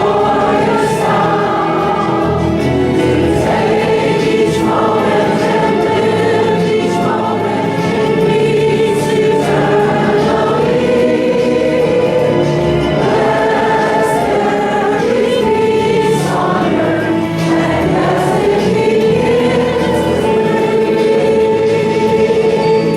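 A congregation singing a peace song together, many voices holding long, steady notes.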